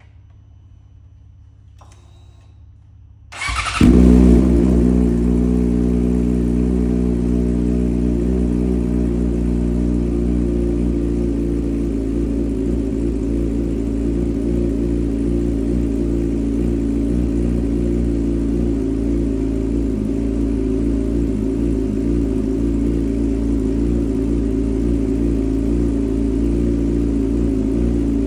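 2020 Yamaha R6's inline-four engine with an aftermarket SC-Project exhaust starting up about three and a half seconds in, flaring briefly and then settling into a steady idle. A few faint clicks come before it.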